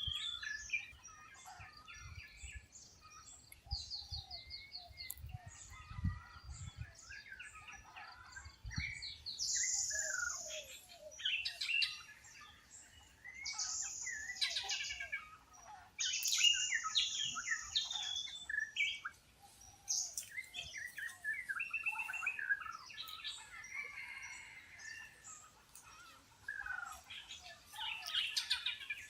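Mixed chorus of wild birds chirping, trilling and calling over one another. Several louder, held high calls come about ten, fourteen and sixteen seconds in. A few faint low thumps sound in the first nine seconds.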